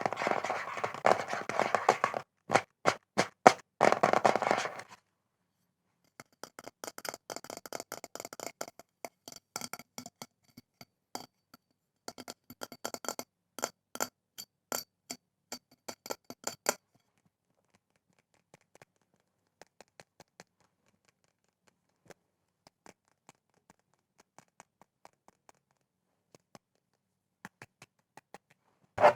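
ASMR tapping and scratching on assorted objects: dense scratching at first, broken by a run of separate sharp taps, then quicker taps and scratches that thin out about halfway through into faint, scattered taps.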